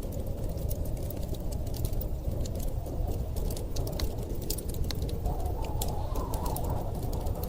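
Wood fire crackling with frequent sharp pops over a steady low rumble of storm wind; a higher howl of wind swells about five seconds in.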